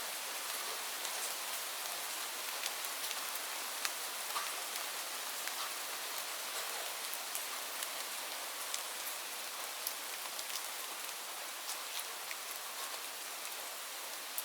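Steady rainfall: an even hiss of rain with scattered sharp drop ticks.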